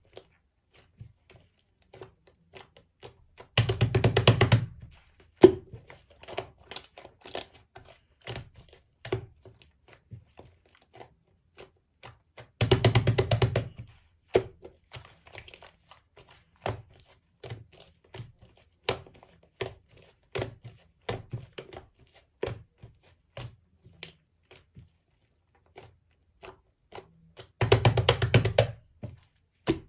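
Slime with clay mixed in being handled: sticky clicks and pops scattered throughout. Three times, about 4, 13 and 28 seconds in, there is a short burst of rapid crackling pops lasting about a second and a half.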